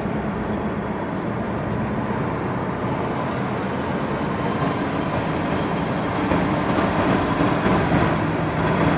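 A 2002 VW GTI VR6 rolling along, with steady road noise and a whine from the front end that follows road speed and not engine speed or gear.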